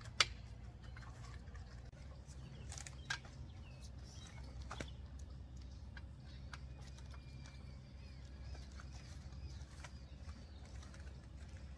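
Springfree trampoline mat rods being worked into the frame sockets, giving a few sharp clicks and knocks, the loudest just after the start. Behind them are faint birdsong and a low steady outdoor rumble.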